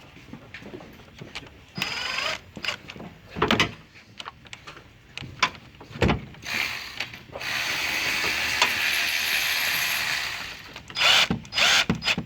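Tools at work on a car battery's terminals and hold-down: scattered metallic clicks and knocks, then a steady mechanical whirr for about three seconds past the middle.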